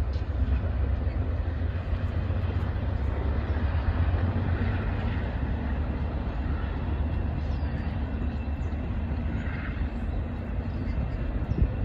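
BNSF intermodal container freight train passing: a steady low rumble of diesel locomotives and rolling cars.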